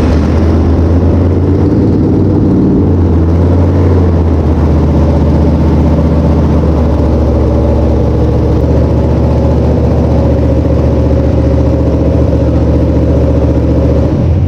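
Small-block Mopar 318 V8 race engine running loud and steady just after being started, settling a little in pitch in the first few seconds, then shut off at the end.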